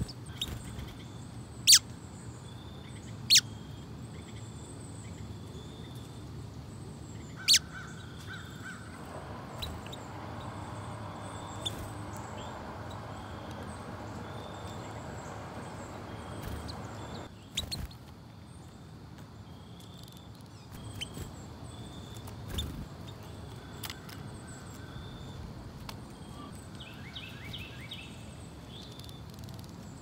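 Small birds chirping outdoors with short high calls, and a quick run of chirps near the end. Three sharp ticks come in the first eight seconds. A steady rush of noise runs for about eight seconds in the middle and stops abruptly.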